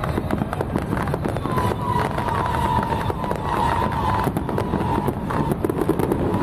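Firecrackers and fireworks going off in a dense run of crackles and pops over a low rumble. A steady high tone like a whistle or siren comes in about a second and a half in.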